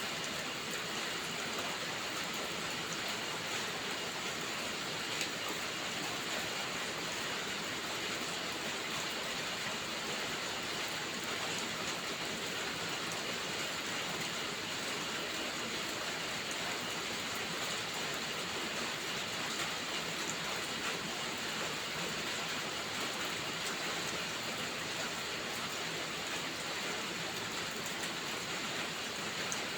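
Steady rainfall: an even, unbroken hiss of rain with a few faint drop ticks.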